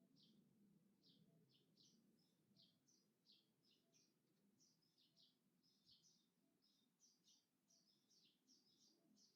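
Faint birdsong: a string of short, high chirps, several a second, over a low, steady rumble.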